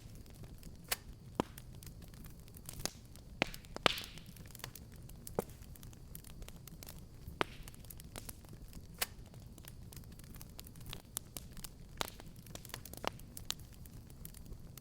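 Wood fire burning in a fireplace, crackling with irregular sharp pops over a low steady rumble, a small cluster of louder pops about four seconds in.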